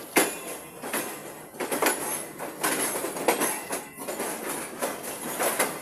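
Passenger train running along the track: irregular knocks and rattles of the coach and wheels, several sharp clacks every second or so over a steady rumble.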